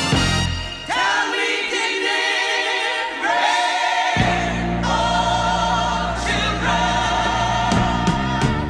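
Group of singers harmonising over an orchestra, holding long notes with vibrato. The low bass is missing from about a second in and comes back in about four seconds in.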